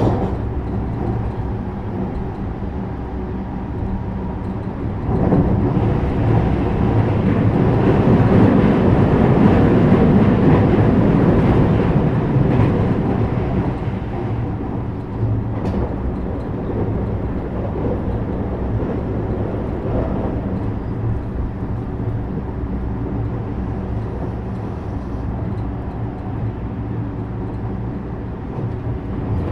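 Running noise of a 321 series electric multiple unit under way: a steady rumble of wheels on rail with a hum, growing louder about five seconds in for several seconds, then settling back.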